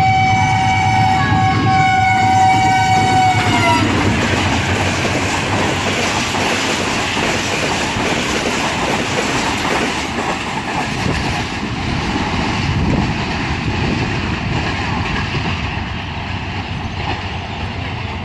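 Pakistan Railways express train sounding a multi-tone horn for about four seconds, dipping slightly in pitch as it cuts off. Then the train passes at speed with a steady rumbling rush and wheel clatter that slowly fades away.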